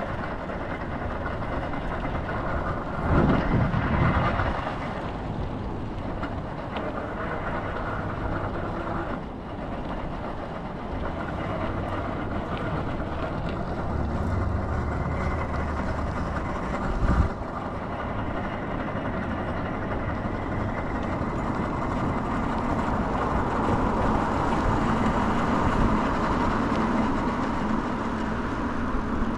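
Steady road traffic noise with no voices, swelling louder for a moment about three seconds in, with a brief knock in the middle.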